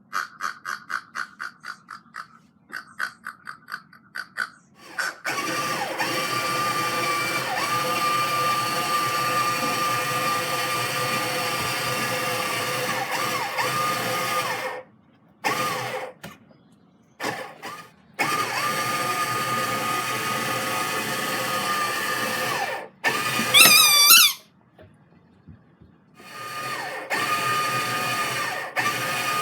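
A battery toy car's small electric motor whirring steadily, stopping and starting several times. It opens with a rapid run of short high chirps, about four a second, and near the end there is a loud rising squeal.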